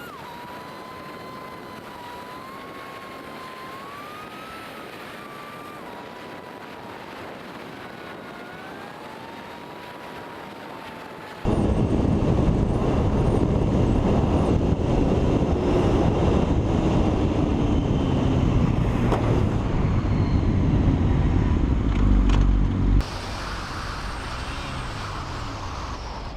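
Road vehicle sounds across cut clips: first a wavering high tone over a steady background, then about eleven seconds in a sudden loud rushing noise that cuts off abruptly shortly before the end.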